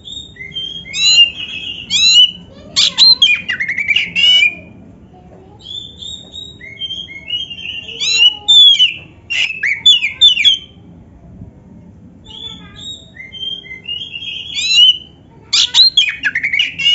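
Oriental magpie-robin (kacer) singing a varied song of whistled, gliding phrases mixed with rapid canary-style trills, in three loud bouts with softer phrases between. A faint steady hum runs underneath.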